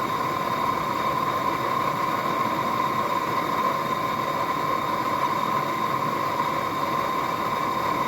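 Forge blower running steadily, a constant whirring rush of air with a high, even whine, keeping the fire hot while the steel heats.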